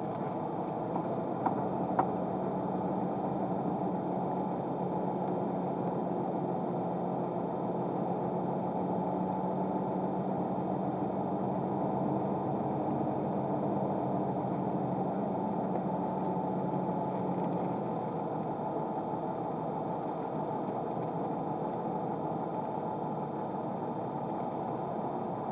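Car running, heard from inside the cabin through a dash camera's microphone: a steady engine and road hum. A low hum within it fades out about two-thirds of the way through, and there are two faint clicks near the start.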